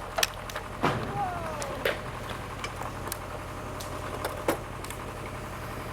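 An engine idling steadily, with scattered sharp clicks and knocks and a short falling squeak about a second in.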